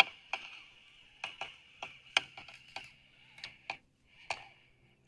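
About a dozen sharp, irregular clicks and taps over a faint steady hiss that fades out near the end.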